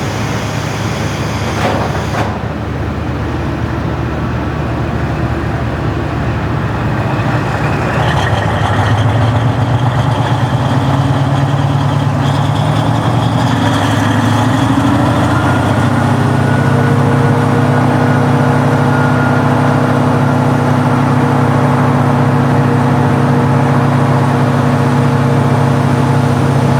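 Original DMF15HSA diesel engine of a KiHa 40-series railcar working under power. Its note rises from about a third of the way in, then holds steady.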